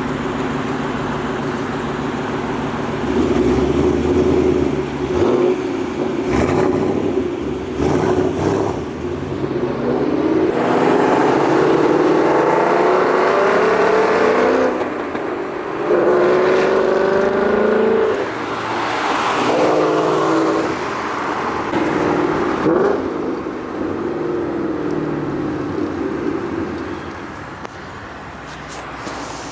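Ford Mustang GT's 5.0 V8 accelerating hard through the gears: several rising pulls, each a few seconds long and cut off at a gearshift, then settling into steadier running near the end.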